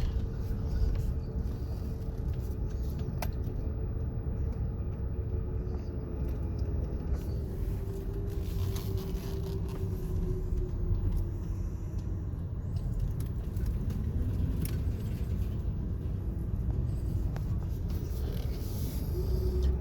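Car driving along at a steady pace: a continuous low rumble of engine and tyres, with an engine note that slowly drops in pitch as it eases off.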